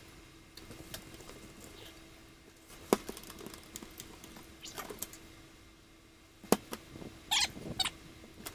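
Two sharp clicks about three and a half seconds apart, with softer scraping and handling noises between them, from hands working the hardware of an RV awning arm. A faint steady hum runs underneath.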